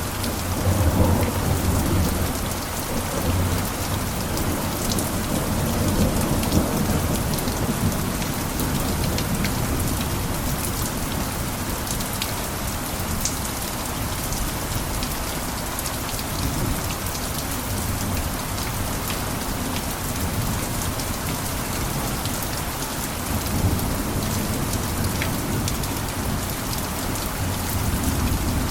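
Steady heavy rain pattering on a roof, with a low rumble that swells in the first few seconds, again about six seconds in, and near the end.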